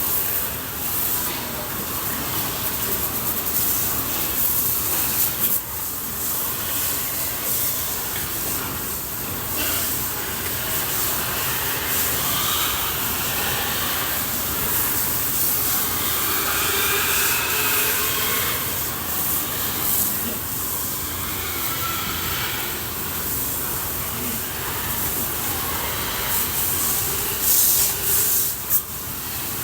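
A water jet spraying steadily, with a loud hiss, while pigs are being washed. There are a few sharper, louder spurts near the end.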